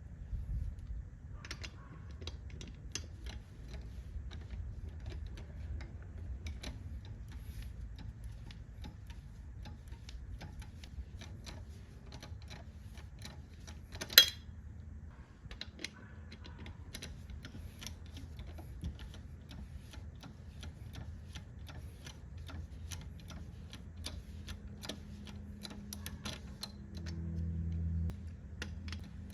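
Irregular mechanical clicks and ticks, a few a second, with one sharp knock about fourteen seconds in, over a low steady hum.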